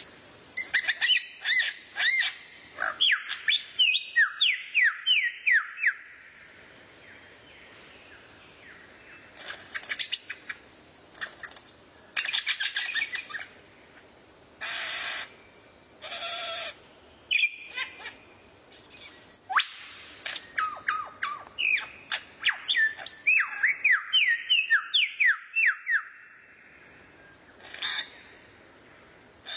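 Recorded songbird song played as a tutor track: phrases of rapid, sliding whistled chirps broken by pauses, with a few harsh, raspy calls in the middle.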